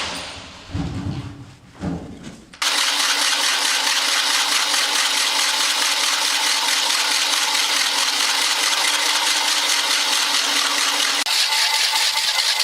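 A few low handling thuds, then an electric power tool switched on about two and a half seconds in and running at a steady speed, a loud even whirring noise with a steady hum under it.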